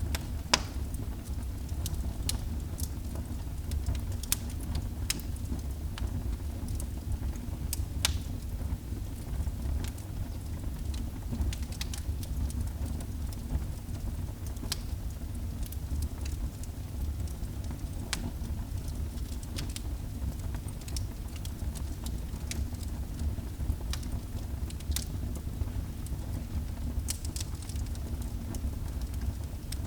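Wood fire burning in a fireplace: a steady low rumble of flames with scattered sharp crackles and pops, roughly one every second or two.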